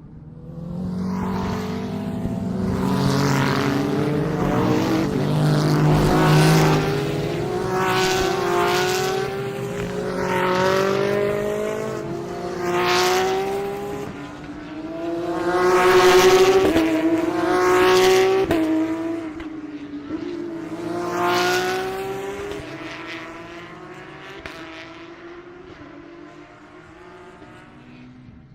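A string of GT3 race cars accelerating past one after another, each engine note climbing in pitch as it pulls away. The sound dies away over the last few seconds.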